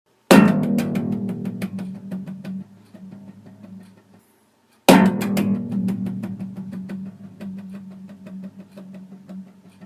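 Guitar music: a chord is struck about a third of a second in and left to ring and fade, then struck again about five seconds in and left to fade.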